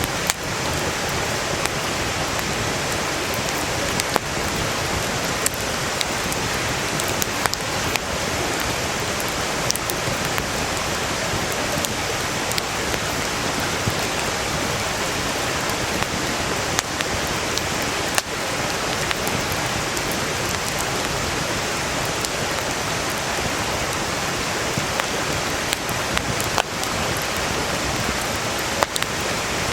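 Steady rush of a nearby mountain stream, with a wood campfire crackling over it in sharp, scattered pops.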